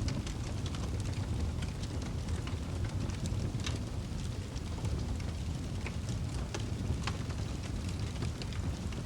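Wood fire burning in a fireplace: a steady low rumble of flame with frequent small crackles and pops scattered through it.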